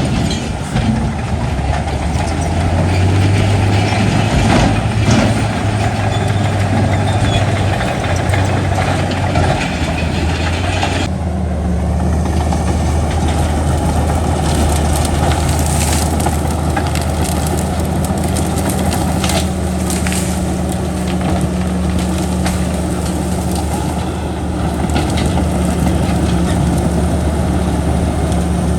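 Heavy diesel earthmoving machinery running steadily under load, with scattered clanks and knocks. The engine note shifts about eleven seconds in.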